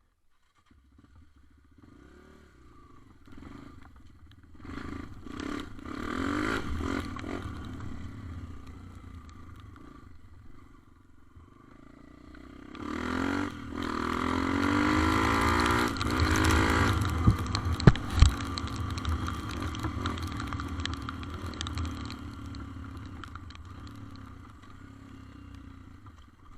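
Small scooter or motorcycle engine running while riding, swelling and easing, then revving up in pitch about halfway through and at its loudest for a few seconds. Two sharp knocks follow, and it settles back to a lower steady run near the end.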